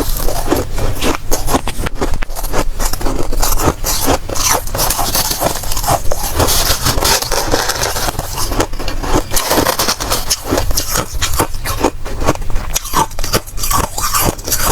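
Soft, powdery freezer frost being scraped and crunched close to the microphone: a dense, continuous run of crisp crackling.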